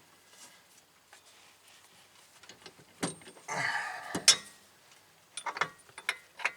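Metal parts and hand tools clinking and rattling during hands-on car repair work: a click about three seconds in, a short scraping rattle, then a sharp metal clank just after four seconds, followed by a few lighter clicks.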